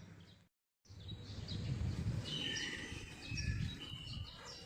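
Small birds chirping and calling, short high chirps and a few held whistled notes, over a low rumbling background noise. The sound cuts out completely for a moment about half a second in.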